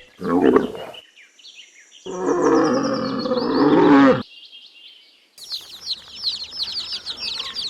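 A camel calling: a short grunt, then a long, loud, low groaning call of about two seconds. From about five seconds in, chicks peep in a quick, high run of chirps.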